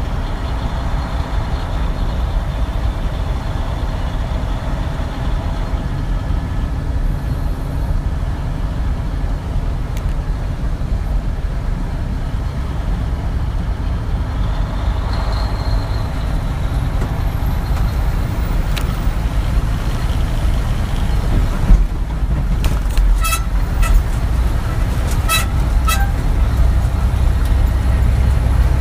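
A truck driving along, its engine and tyres making a steady low rumble with road hiss. Near the end come a few short, sharp pitched sounds.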